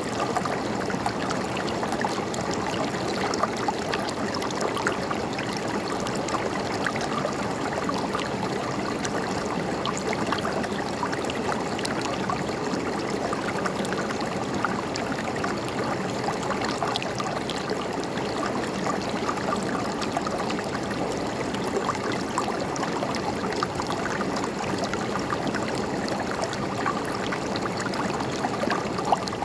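River water flowing and babbling in a steady stream, with fine splashing and gurgling detail.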